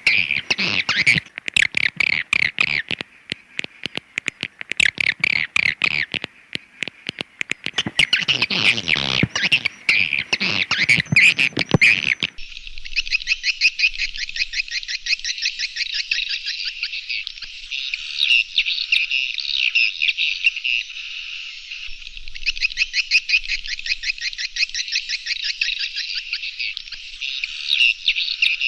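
Recorded swiftlet calls of the kind played as a lure for swiftlet houses: dense, rapid chirping and twittering. About twelve seconds in it cuts abruptly to a different recording, a continuous fast, higher twitter with nothing low beneath it.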